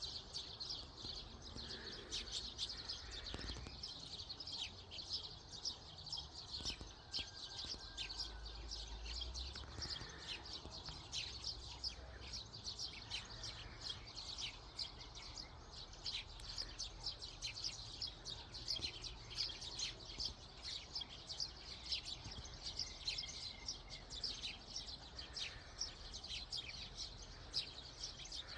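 Many small birds chirping together in a dense, continuous chorus of short, high notes.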